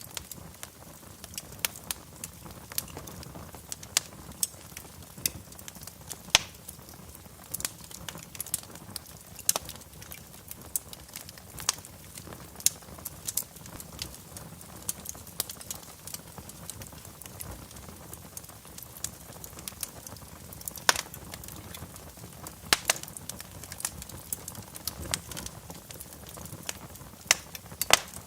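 Wood fire crackling in a fireplace: irregular sharp pops and snaps, a few much louder than the rest, over a low steady rush of flame.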